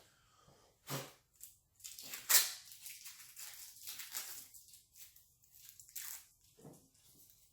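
Styrofoam packing and a cardboard box being handled as a part is lifted out: irregular crackling, scraping and rustling, with one louder scrape a little past two seconds in.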